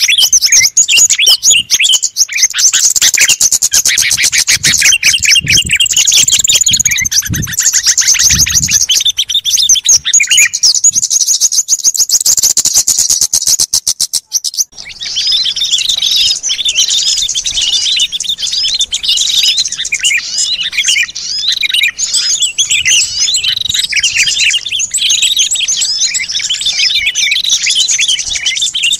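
Dense chorus of many small songbirds chirping and calling at once, a bird-lure recording made to draw in wild birds. Rapid, evenly repeated notes fill the first half, then the recording changes abruptly about halfway through to a busy jumble of overlapping chirps.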